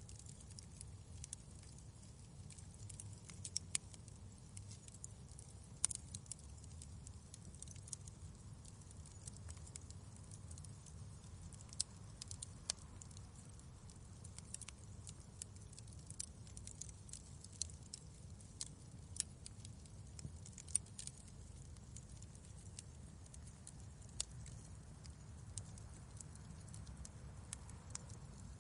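Wood fire crackling in a fireplace: irregular sharp crackles and pops, a few louder snaps among them, over a steady low rumble.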